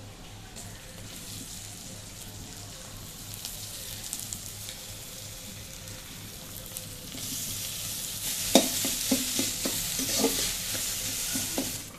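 Oil and spice paste sizzling in a metal wok as boiled potato is crumbled in by hand. Past the middle the sizzle grows louder, and a metal spatula clacks and scrapes against the wok in a quick run of knocks as the potatoes are stirred into the masala.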